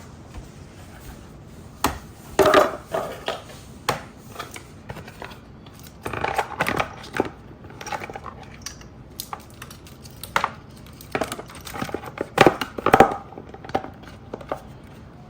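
Plastic body cover of a Razor MX125 electric motorcycle being worked back into place by hand: irregular plastic knocks, scrapes and creaks, with the loudest clatters about two and a half seconds in and again near the end.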